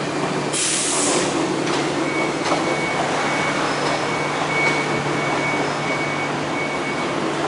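MTR train running slowly with a steady rumble and hum, with a short hiss about half a second in and a faint on-off high tone through the middle.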